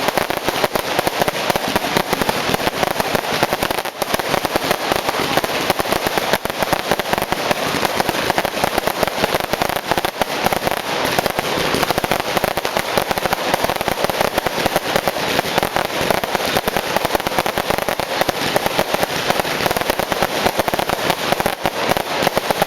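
Many fireworks and firecrackers going off at once: a dense, unbroken crackling and popping with no letup.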